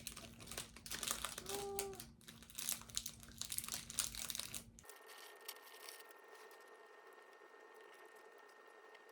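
Crinkling and rustling handling noise for about five seconds, then an abrupt change to a faint steady hum.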